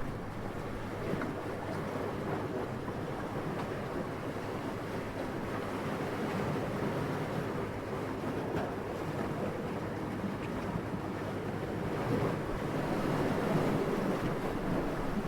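Steady rush of wind, swelling a little near the end.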